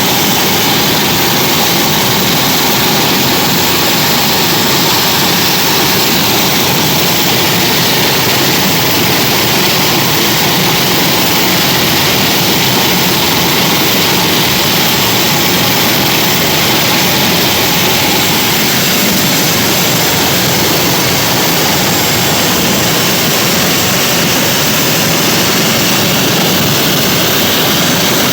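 Helicopter engine and rotor running with a loud, steady noise that does not change.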